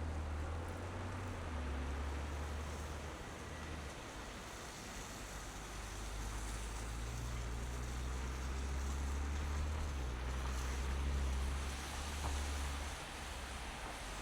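Car driving on snowy city streets: a steady low rumble of engine and road noise, rising and falling a little, over an even tyre and road hiss.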